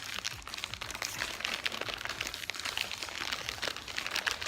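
Crinkling of a small plastic snack packet of dry noodles being handled and squeezed, an irregular stream of crackles.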